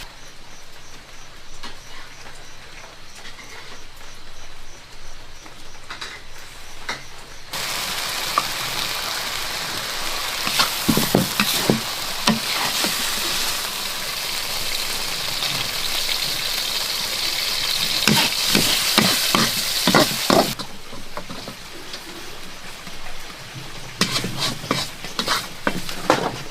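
Food frying and sizzling in a hot pan, with knocks of a utensil stirring it. The sizzle starts and stops abruptly about a third of the way in and two thirds of the way in, then comes back near the end.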